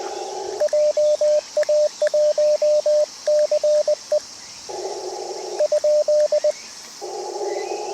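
Morse code (CW) tone from an amateur HF transceiver, a single pitch keyed in dots and dashes at contest-like speed. It comes in two runs: the first stops about four seconds in, and a short second run follows. Between them and at the end is the hiss of the radio's narrow CW filter.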